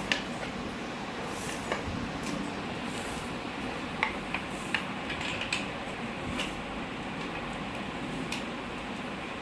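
Metal parts being handled, giving scattered light clinks and clicks, about eight in all and a few of them sharp, over a steady hiss.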